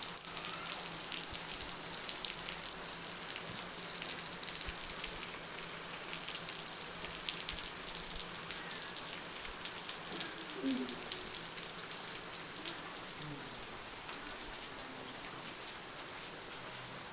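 Steady rain falling, a dense patter of drops hitting a surface. It eases slightly toward the end.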